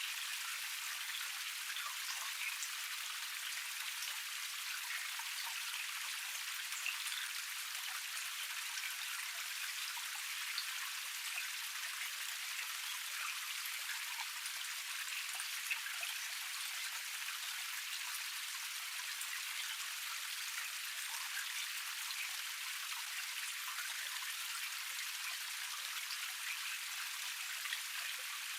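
Small cascade: water running steadily over rocks, a constant splashing hiss scattered with many tiny droplet splashes.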